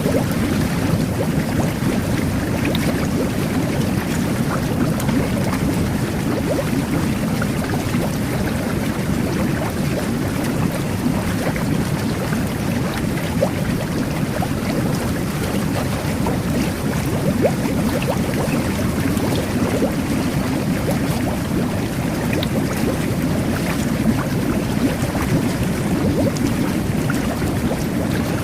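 Jet bath running: water churning and bubbling steadily under the pump's jets, with a low rumble and fine popping of bubbles at the surface.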